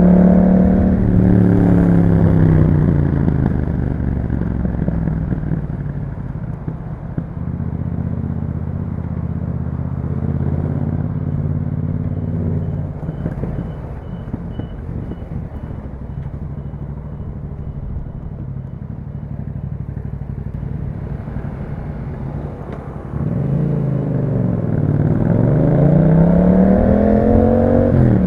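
Yamaha MT-07 parallel-twin engine through an Akrapovic exhaust with a dB killer, heard from the rider's position. The revs fall off at the start and then stay low and steady for about twenty seconds. About 23 seconds in the throttle opens hard: the revs dip once, then climb steeply.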